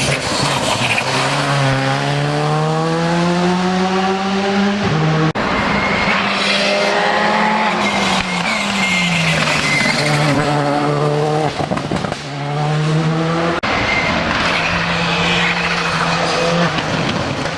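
Rally car at full throttle on a special stage. The engine revs climb with two sharp gear changes, and there is a brief tyre squeal around the middle.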